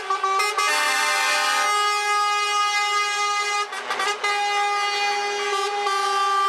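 Truck air horns sounding long, held blasts, several horns overlapping in a chord, with brief breaks just after the start and about four seconds in.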